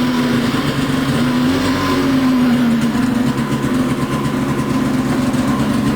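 Polaris 600 Switchback snowmobile's two-stroke twin running just after a cold start, its speed rising slightly about a second and a half in and settling back a second later.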